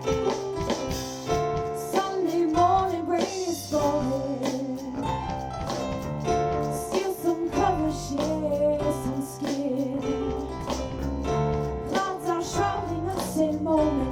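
Live music from a ten-piece soul band in the middle of a song, with a steady beat under a wavering lead melody line.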